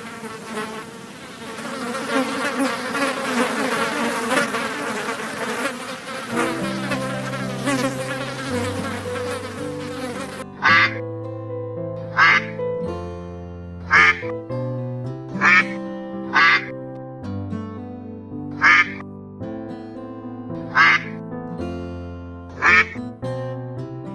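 Buzzing of a flying insect, a fly or bee, for roughly the first ten seconds. Background music comes in under it with a stepping bass line, and from about ten seconds in carries on alone with a sharp percussion hit every second and a half or so.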